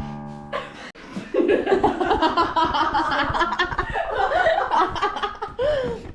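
A group of teenage girls laughing and giggling together for about five seconds, after a brief held musical chord that cuts off in the first half-second.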